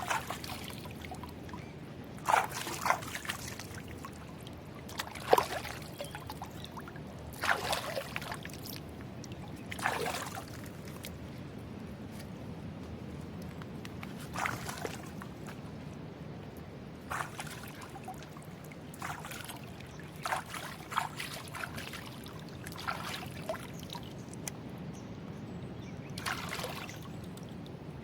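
Water sloshing and pouring in short, irregular splashes, about a dozen of them, over a steady low hiss.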